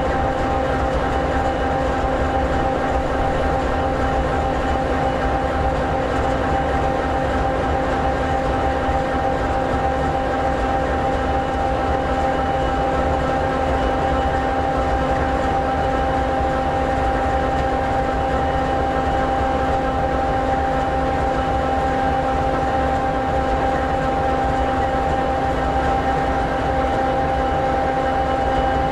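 EMD 16-710G3B two-stroke V16 diesel in an SD60E locomotive idling steadily: an even low rumble with a few steady held tones over it, unchanging throughout.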